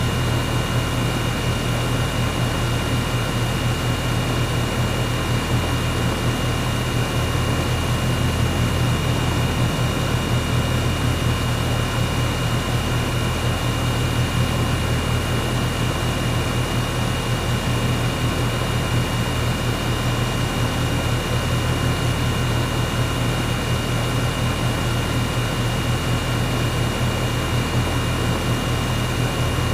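Air conditioner running steadily: a continuous low hum with a few faint steady higher tones over a constant airy rush.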